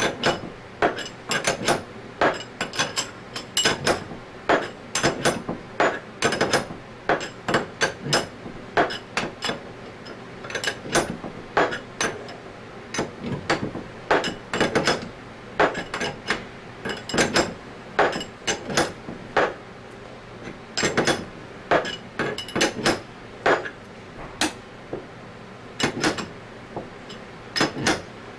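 Repeated sharp hammer taps on metal, two to three a second with a short ring after each, as a part is tapped into place in an Anest Iwata ISP250 scroll vacuum pump during a rebuild.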